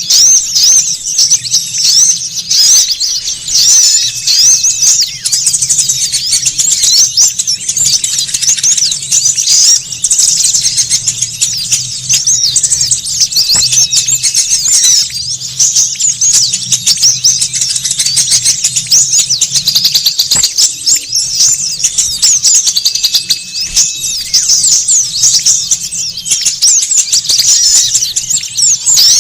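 Many small birds chirping and twittering at once in a dense, unbroken chorus of high, fast, overlapping calls: the noisy, agitated small-bird calling used as a lure to draw in small wild birds.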